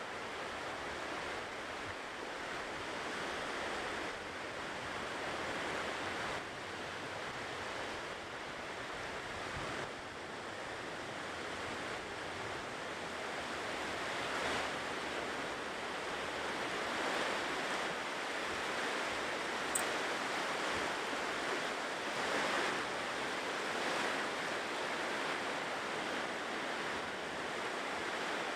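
Ocean surf washing onto a shore: a continuous hiss of breaking waves that swells and eases gently, with a single short click about two-thirds of the way through.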